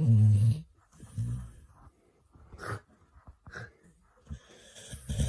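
A dog's deep breathing noises: two loud ones, at the start and about a second in, then fainter ones.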